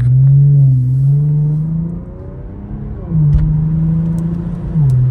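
Infiniti Q50 3.0T's twin-turbo V6 pulling hard under acceleration: the engine note climbs, drops about two seconds in as the throttle comes off, then climbs again and steps down near the end at an upshift.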